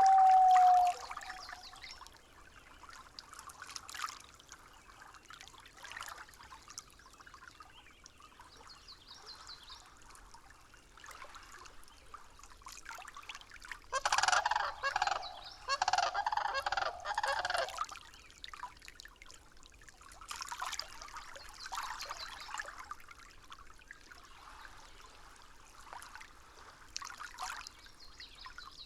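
Nature-sound track: bird calls over a faint trickling stream, loudest as a rapid cluster of harsh calls about halfway through. A steady whistle-like tone cuts off about a second in.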